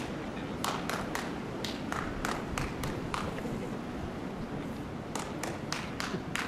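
Orangutan clapping her hands in two runs of sharp claps, three or four a second, with a pause of about two seconds between them. She is clapping to ask to be let inside out of the cold. Wind rumbles on the microphone underneath.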